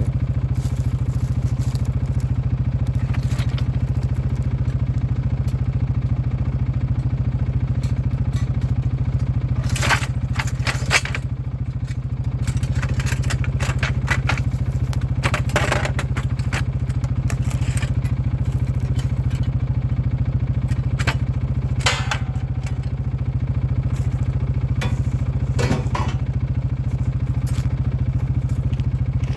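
A small engine running steadily with an even pulse, with a few clattering knocks over it, the clearest about ten seconds in and again at about fifteen, twenty-two and twenty-six seconds.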